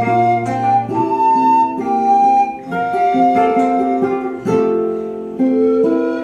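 Pan flute playing a melody in long held notes over plucked classical guitar and ukulele accompaniment.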